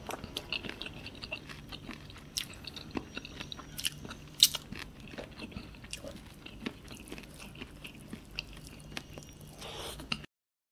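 Close-miked mukbang eating: wet chewing and mouth smacks with many small sharp clicks as rice and curried meat are eaten by hand, plus fingers squishing rice in curry. The loudest click comes a little after four seconds in, and the sound cuts out briefly near the end.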